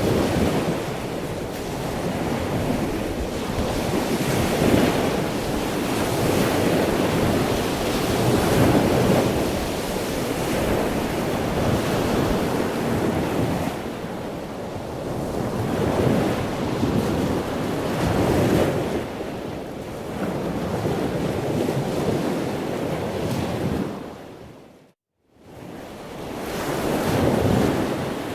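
Wind buffeting the microphone over the rush of the sea, swelling and easing every couple of seconds. The sound dips out to silence for a moment near the end.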